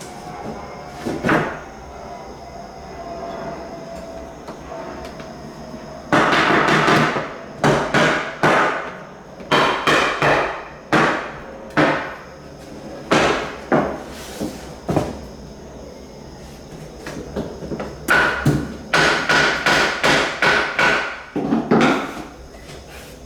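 Hammer blows on hardwood floorboards as they are driven into place. There is a single blow early, then a steady run of about a dozen blows, a short pause, and another run near the end.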